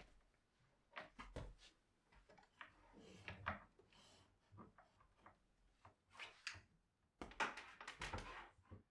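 Faint household handling sounds: soft knocks, taps and rustles of objects being moved and set down, busiest near the end.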